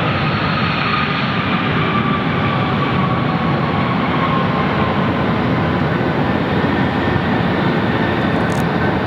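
Jet airliner engines running loud and steady as a plane passes close by, with a faint whine that falls slowly in pitch over the first few seconds.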